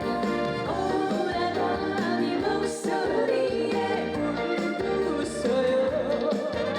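Live song played through a festival PA: a woman singing a wavering melody over full band backing with a steady beat.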